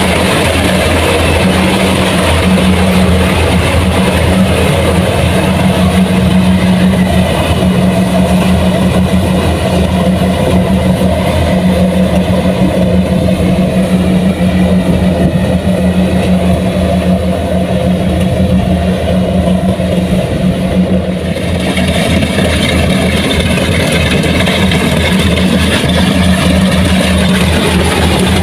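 Heavy diesel machinery engine running steadily under load, easing briefly about three-quarters of the way through.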